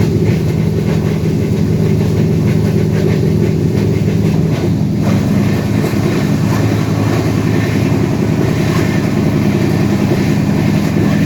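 Train running along the track: a steady, loud rumble with faint irregular clicks from the wheels on the rails.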